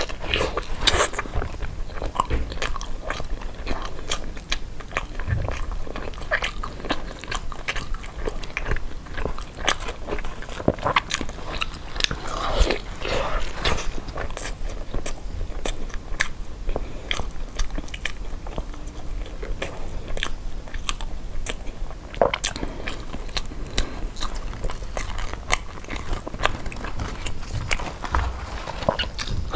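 Close-miked biting and chewing of a sticky-rice zongzi, heard as a steady run of small mouth clicks.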